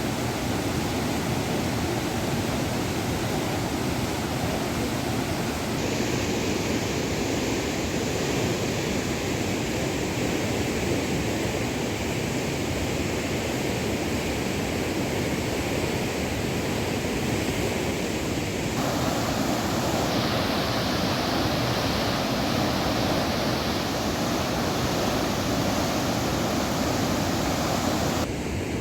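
Swollen river water rushing in spate after heavy rain, a steady dense noise of fast-flowing water. Its tone changes abruptly about six seconds in and again about nineteen seconds in.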